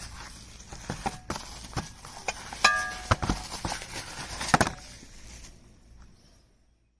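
Metal parts of a chainsaw mill being handled and knocked together: a string of knocks and clanks, one about two and a half seconds in with a brief metallic ring.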